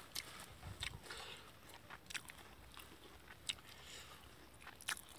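A man chewing a big mouthful of raw beef koi salad: faint chewing with scattered short clicks, a few each second, the sharpest near the end.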